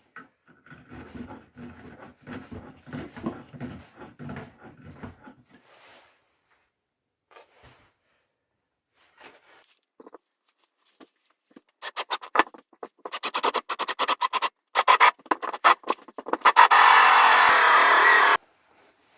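Scraping and rubbing on wood, then a cordless power tool starting in short stuttering bursts and running for about two seconds before it stops abruptly.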